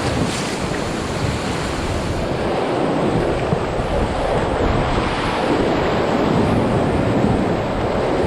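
Loud, steady rush of whitewater around a raft running a river rapid.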